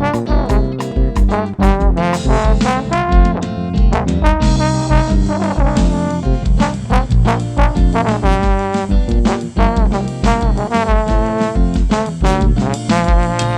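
Trombone playing a melody with bending notes over a band's bass line and drums.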